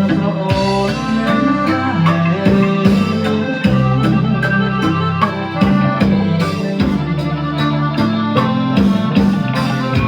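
A band playing music with a steady drum-kit beat under bass and pitched instruments such as guitar or keyboard.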